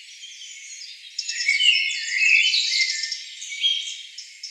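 Rainforest animal calls: a chatter of high chirps and short whistled notes that starts about a second in, with nothing at all in the low end.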